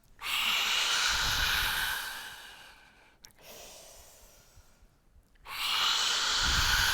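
Two long, forceful open-mouthed exhalations of lion's breath (Simhasana), a breathy hiss, the first lasting about two seconds and the second starting about five and a half seconds in.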